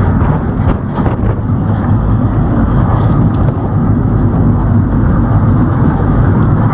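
Small goods truck (tempo) driving uphill, a steady engine drone and road rumble heard from the back of the truck where the bicycle rides.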